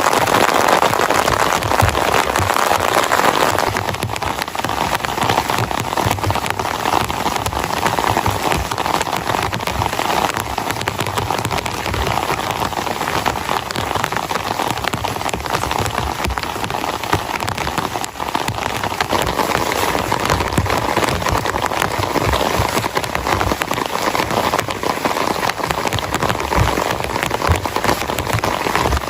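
Heavy rain falling steadily: a dense, even hiss of drops, a little louder for the first few seconds.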